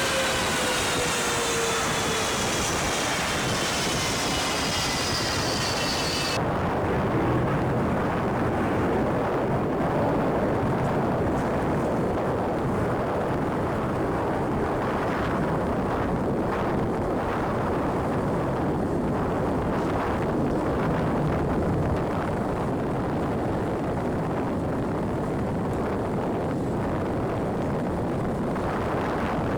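Fighter jet engine noise. A high whine falls in pitch as a jet passes, then about six seconds in the sound changes abruptly to a duller, steady jet rumble that runs on without a break.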